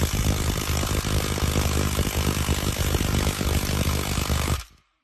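A loud engine running, with a low rumble under heavy hiss, cutting off suddenly near the end.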